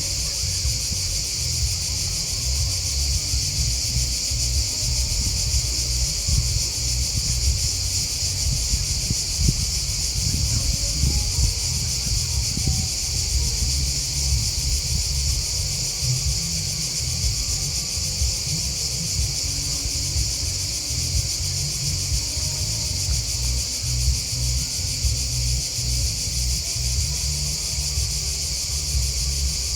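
Dense chorus of chirping insects (grasshoppers and crickets): one steady, high-pitched, unbroken trill, over a low rumble.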